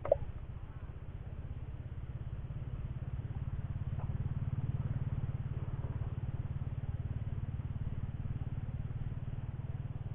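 A small engine running steadily out of sight, a low pulsing drone that grows a little louder over the first few seconds and then holds. A sharp click comes right at the start.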